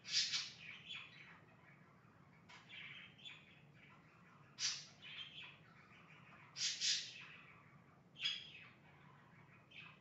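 Pet birds chirping: short high calls every second or two, a few of them louder.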